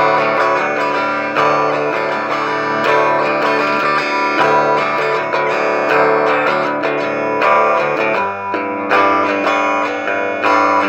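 Guitar music with strummed chords, the low notes shifting to a new chord about eight seconds in.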